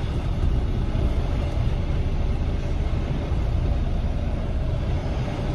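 Tractor-trailer's diesel engine running with a steady low rumble during a low-speed straightening manoeuvre.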